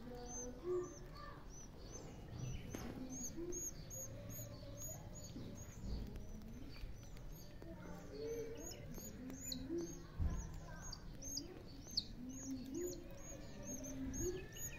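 Birds chirping: a steady run of short, high chirps, about two to three a second, with scattered lower calls beneath them. A couple of brief low thumps come through about six and ten seconds in.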